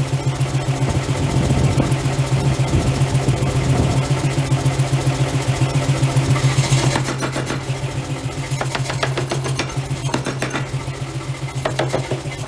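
Forging machinery running with a steady mechanical hum and an even, rapid pulse. After about seven seconds the hum eases and a rattle of quick metallic clicks and knocks takes over.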